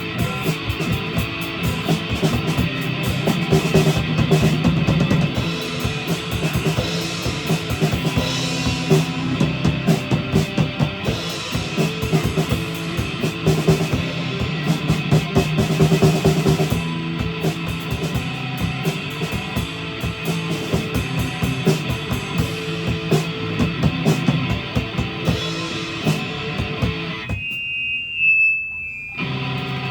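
A live rock band playing a song on electric guitar and drum kit. About 27 seconds in, the band drops out for a moment, leaving only a thin high tone, then comes back in.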